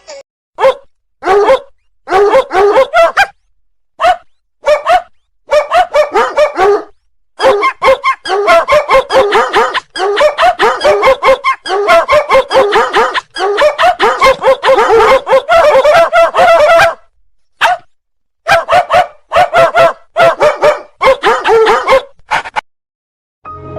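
A small dog yapping in quick runs of short, high barks, broken by a few brief pauses.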